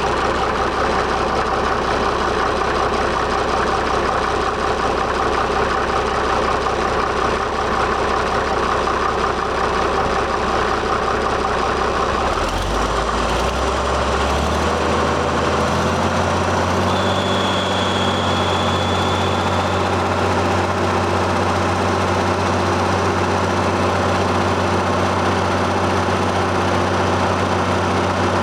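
1965 Case 930 tractor engine idling steadily, then throttled up a little before halfway and settling at a higher steady speed. A brief high whistle sounds shortly after the speed change.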